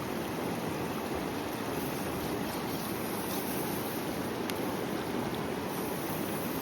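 Steady rushing of a river flowing, with a single faint click about four and a half seconds in.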